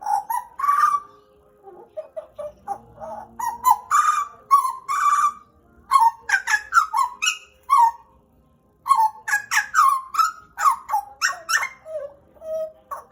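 Pied butcherbird (Cracticus nigrogularis) singing: quick runs of short, loud fluting and chattering notes that slide up and down in pitch. The song breaks off for about a second in the middle, then starts again.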